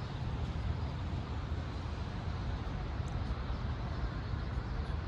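Steady outdoor rumble of wind buffeting the microphone mixed with city traffic noise, with no distinct events.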